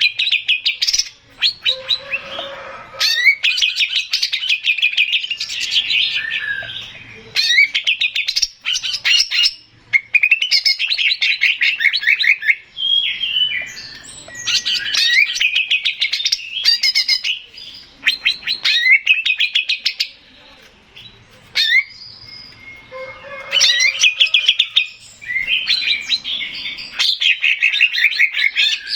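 Male green leafbird (cucak ijo) singing loud, fast chattering phrases of rapidly repeated notes, with short pauses between them.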